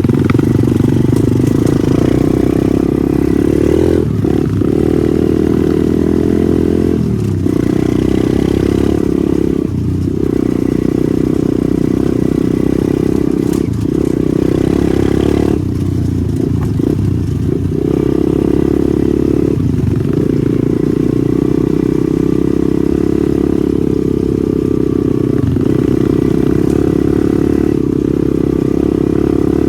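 Pitbike's small single-cylinder engine running hard at high revs while being ridden, with brief dips in revs every few seconds.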